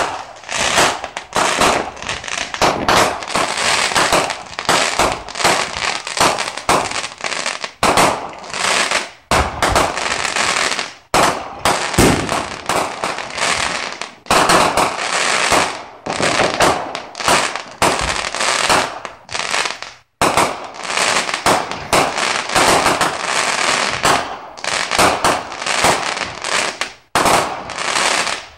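Aerial fireworks bursting into crackling stars. A dense run of rapid sharp pops goes on almost without a break, dropping away briefly a few times.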